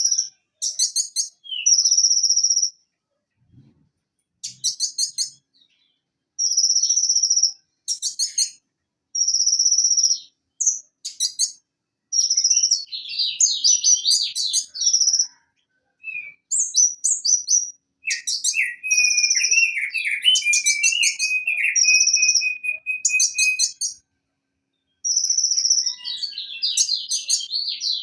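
Van Hasselt's sunbird (konin) singing: short phrases of high, sharp repeated notes and rapid trills, separated by brief pauses. In the middle a lower, chattering trill runs for several seconds.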